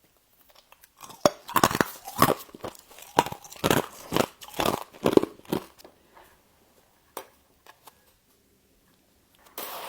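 Humidifier frost being bitten and chewed: a run of sharp, crisp crunches, about two a second, that dies away about halfway through, with a lone click later and a louder rustling crunch starting just before the end.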